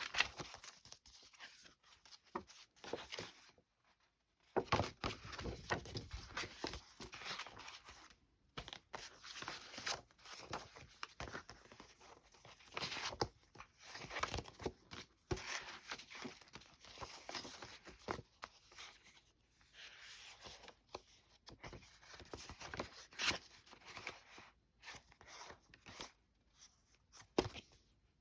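Paper greeting cards rustling and crinkling as they are handled and leafed through one after another, in irregular bursts with a few sharper crackles.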